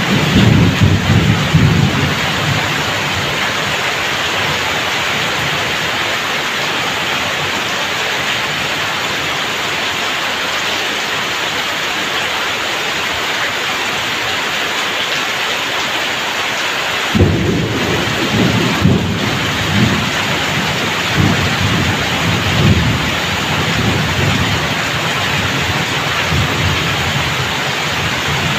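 Heavy rain pouring off a roof edge in streams and splashing onto the ground, a dense steady hiss. A low uneven rumble sits under it at the start, stops for a while, then returns suddenly about two thirds of the way through and comes and goes to the end.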